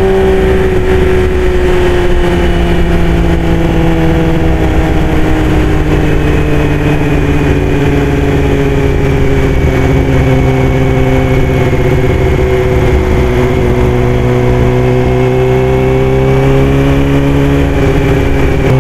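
Yamaha YZF-R6 sport bike's inline-four engine running under the rider at cruising speed, with a constant low rush of wind. Its pitch sinks slowly over the first dozen seconds as the bike slows, holds, then rises a little near the end.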